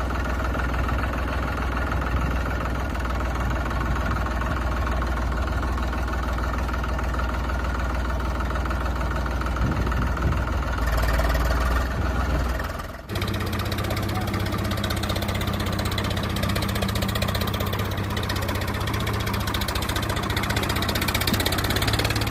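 Tractor engine idling steadily. A little past halfway the sound drops out briefly and resumes with a different, steadier low hum.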